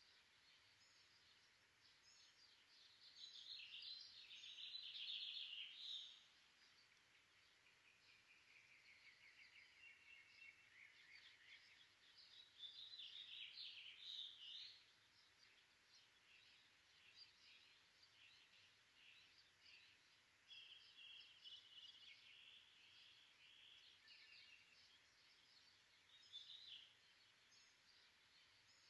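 Faint birdsong: bouts of quick chirps and trills, loudest a few seconds in and again around the middle, over a low steady hum.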